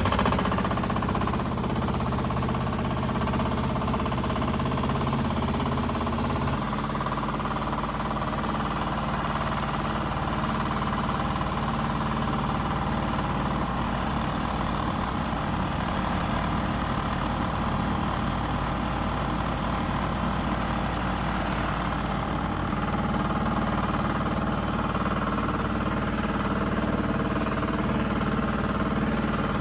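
Backhoe loader's diesel engine running steadily, its low note shifting about six and a half seconds in.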